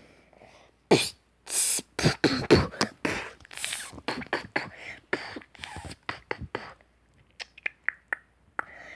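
A person beatboxing: a fast, uneven run of mouth pops, clicks and hissed snare-like bursts.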